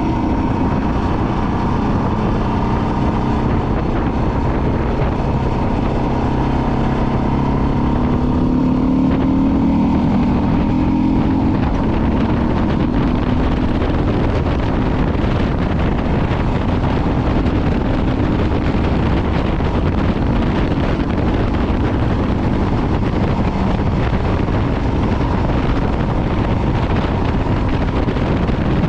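Motorcycle engine running under way with heavy wind noise on the microphone; the engine note climbs as it accelerates a few seconds in, then is mostly buried in the wind rush.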